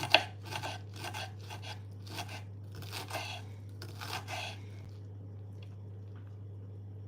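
A knife cutting through a bunch of fresh callaloo, crisp crunching strokes about two a second that stop about four and a half seconds in. A steady low hum runs underneath.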